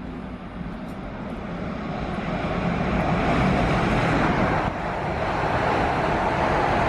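A train approaching and running through the station. It builds from about two seconds in into a loud, steady rush of wheel and running noise.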